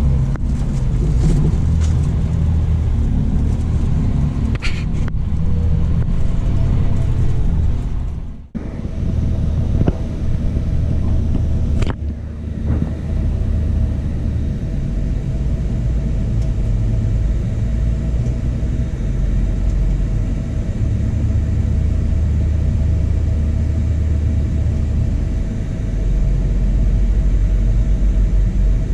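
Scania coach (Irizar i8 body) on the move, a steady low engine and road rumble. A brief drop comes about eight seconds in, after which a steady higher hum runs under the rumble.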